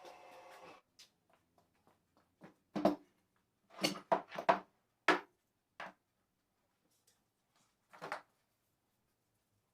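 A steady hum that stops about a second in, then a series of separate knocks and clatters from tools and parts being handled and set down on a workbench.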